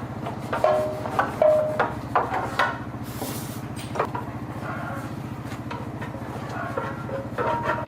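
A motor running steadily with a fast, even low pulse, while metal parts clank and knock over it, with a few short ringing metal tones in the first couple of seconds.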